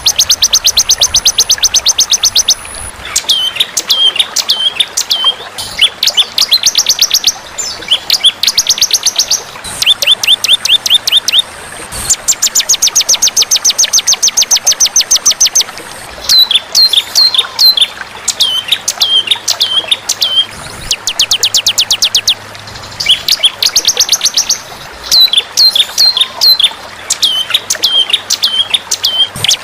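Songbird masteran (song-tutoring) recording: long, fast, even trills of rapid high notes lasting two to three seconds each, alternating with runs of short downslurred whistled notes, repeating over and over.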